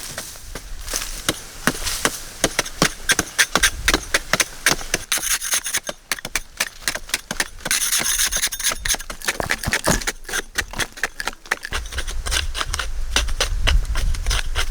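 Hand-tool building work: irregular knocks and taps with stretches of scraping, the scraping strongest about five and eight seconds in. A low rumble comes in near the end.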